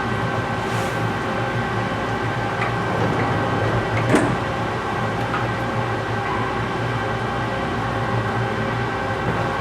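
Large metal lathe running steadily while turning a big bearing part, a constant hum with several steady tones from the drive. A short sharp click about four seconds in.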